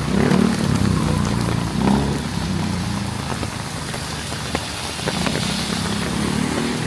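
Heavy rain falling steadily, with a motor vehicle's engine running close by, loudest in the first two seconds and again near the end. Scattered sharp raindrop ticks sound close to the microphone.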